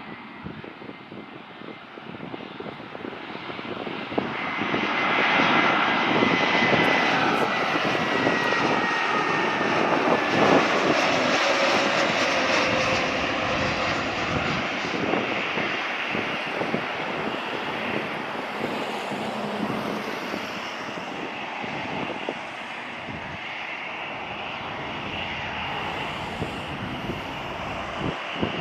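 Airbus A320-family airliner's jet engines swelling to a loud roar as the aircraft passes, with a high whine that falls slightly in pitch, then the roar slowly easing off.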